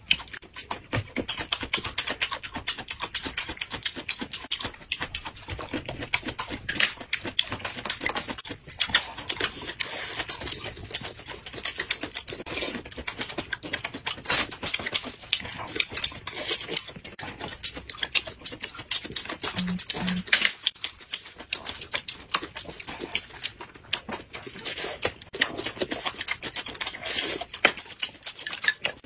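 Close-miked eating sounds: crunching and wet chewing of raw vegetables wrapped in thin pancakes, with lip smacks, as a continuous run of irregular clicks and crackles.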